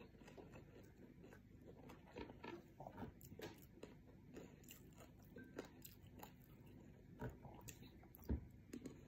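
Faint close-up chewing of a mouthful of fried rice: soft, irregular clicks and smacks of the mouth, with a single louder knock near the end.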